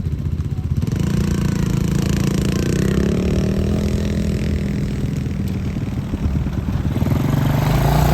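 Off-road vehicle engine running, its pitch stepping up about a second in and then rising and falling with the throttle.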